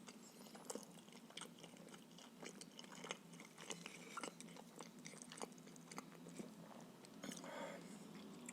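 Close-miked chewing of a cabbage-filled pancake (blin): quiet, irregular wet mouth clicks and chewing, with a brief softer sound near the end.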